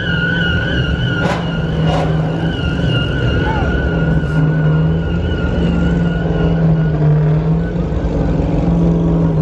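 A car engine running loudly, with a high, wavering whine over it that fades out about six seconds in; two sharp clicks come between one and two seconds in.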